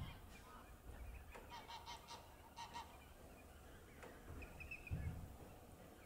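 Faint shorebird calls: a quick run of short nasal notes about a second and a half in, then a few higher chirps near the end. Low rumbles near the start and about five seconds in.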